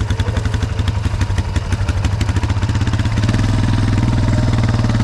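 ATV engine running with an uneven, pulsing beat, then about three seconds in it picks up to steadier, fuller running as the throttle is opened.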